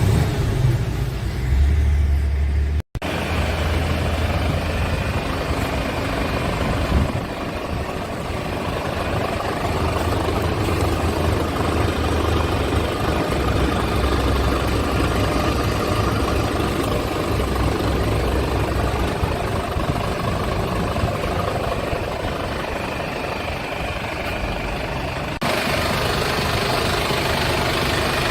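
Mercedes-Benz Actros 1851's OM 471 inline-six diesel engine idling steadily. The sound breaks off for an instant about three seconds in and changes abruptly near the end, as at cuts between shots.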